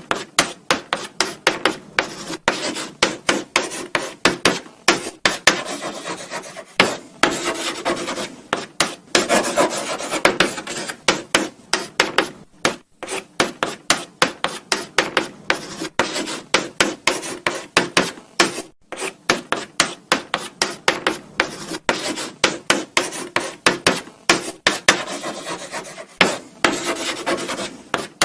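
Chalk writing on a blackboard: a quick run of short scratching and tapping strokes, several a second, with brief pauses between words.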